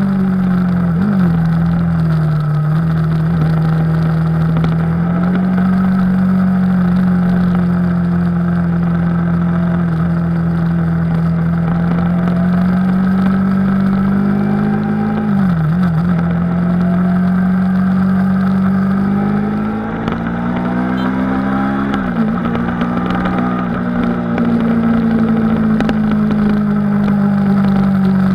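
A 2017 Yamaha R3's 321 cc parallel-twin engine running steadily under way, heard from a camera on the bike. Its note dips briefly three times, near the start, about halfway and about three quarters through, and climbs in pitch just before the last dip.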